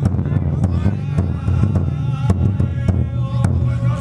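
Festival float music: irregular sharp drum strikes over a loud low hum, with voices calling and chanting.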